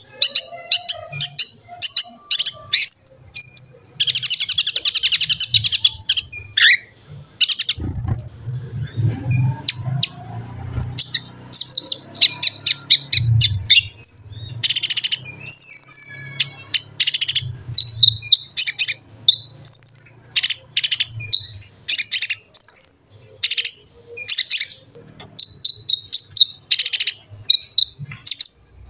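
Kolibri ninja (konin) sunbird singing: a dense run of rapid, high-pitched chirps and twitters, with a fast buzzy trill about four seconds in.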